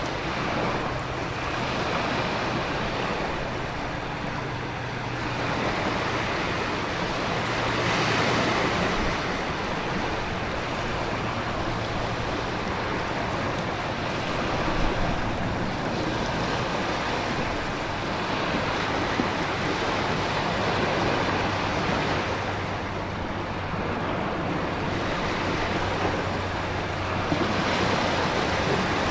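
Stormy ocean ambience: a continuous rush of wind-driven rain and surf, with waves swelling and breaking about every six or seven seconds.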